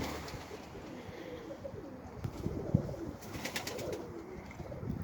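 Domestic pigeons cooing softly and repeatedly, with a short burst of clicks or rustling about three and a half seconds in.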